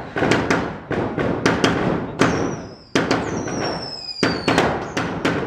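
Boxed fireworks set on the street going off: an irregular string of a dozen or more sharp bangs, with several long falling whistles from about two seconds in.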